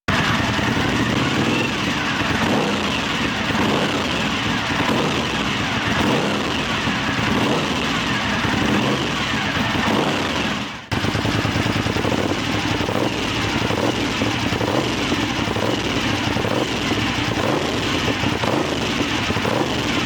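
1997 Suzuki TL1000S's 90-degree V-twin engine running steadily at a lumpy, pulsing idle, the motorcycle still warming up after a cold start.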